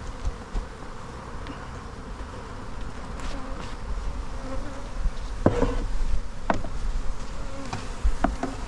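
Honey bees buzzing steadily in a mass around an open hive, with a few sharp knocks of wooden hive equipment in the second half.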